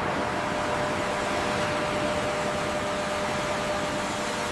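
Steady mechanical drone: an even rushing noise with a few faint steady hum tones underneath, holding level throughout.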